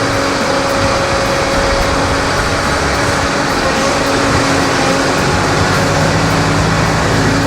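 Diesel engine of a Tigercat log loader running steadily, with a constant engine hum; a lower tone joins near the end.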